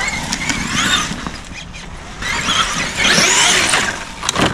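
Traxxas Xmaxx RC monster truck's electric motor whining up and down in short throttle bursts, with a spell of tyre and dirt noise about three seconds in. The truck is malfunctioning and its reverse is not working. A sharp click comes near the end.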